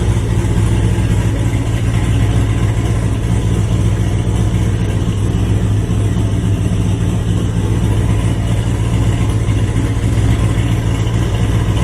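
Turbocharged LQ9 6.0-litre V8 in a Nissan 350Z idling steadily, with a deep, even low note.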